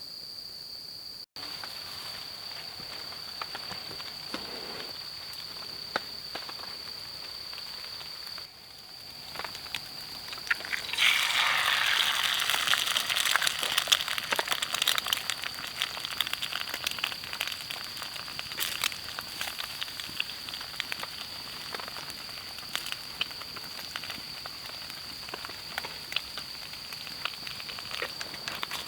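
Insects trilling in a steady, high, even tone. From about eleven seconds in, a louder crackling, sizzling noise full of small clicks joins them and slowly eases off.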